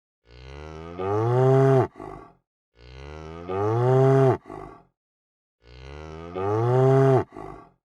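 Cow mooing three times, the same call repeated about every two and a half seconds. Each moo starts softer, swells louder partway through and drops in pitch at the end, followed by a short low after-sound.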